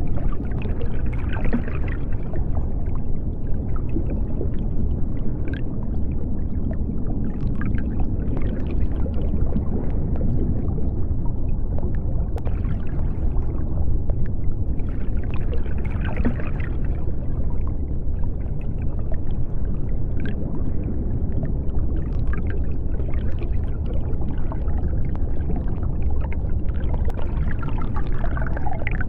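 Underwater ambience of the deep sea: a steady deep rumble, with higher bubbling swells rising and fading every several seconds.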